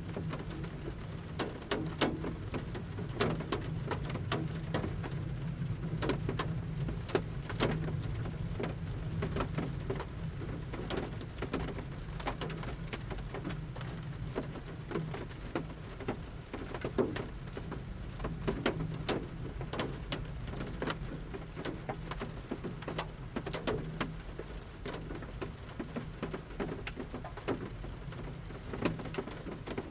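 Large raindrops falling from the forest canopy and pattering on a camper van's metal roof at irregular intervals, heard from inside the van: many sharp separate taps over a steady low rumble.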